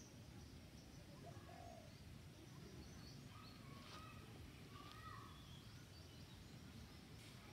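Near silence: faint outdoor background noise with a few soft, short bird chirps scattered through it.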